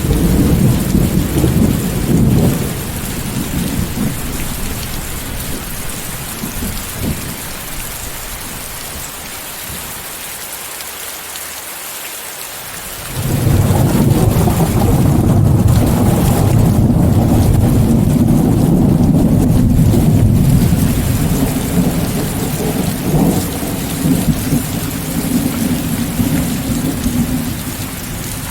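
Steady rain hissing, with rolling thunder: a rumble fades out over the first few seconds, then a second, heavier peal breaks in suddenly about halfway through and rumbles on to the end.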